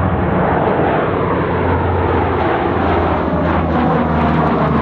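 Steady electronic jet-engine sound effect from a toy jet plane's sound system: a continuous roar over a low hum, unchanging in pitch.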